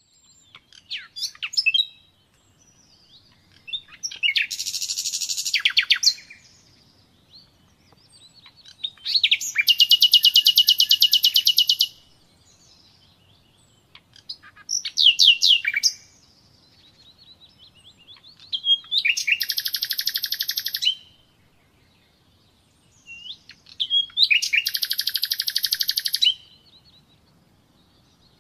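Common nightingale singing: about six song phrases separated by pauses of a second or two, most of them fast trills of rapidly repeated notes, mixed with quick whistled notes.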